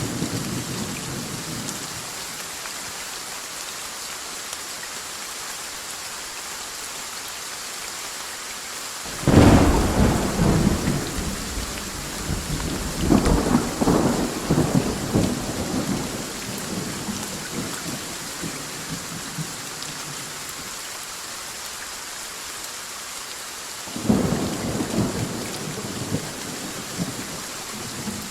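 Steady heavy rain with rolling thunder: a loud clap about nine seconds in that rumbles on for several seconds with a second surge, and another, shorter roll near the end.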